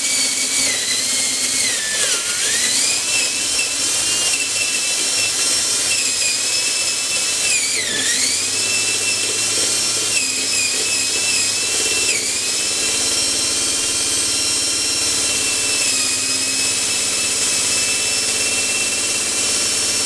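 Electric drill boring into a clamped block of 2x4 lumber, its motor whine running without a break. The pitch sags about two seconds in, again around eight seconds and briefly near twelve, each time recovering, as the bit bites and the drill bogs under load.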